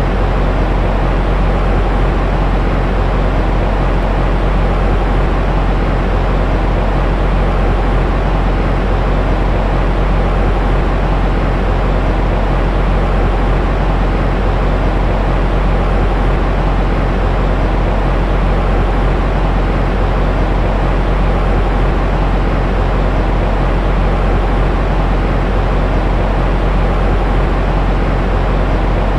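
Continuous, unchanging noise from a baby-sleep white-noise track, heaviest in the low end: a deep steady rumble with a softer hiss above it.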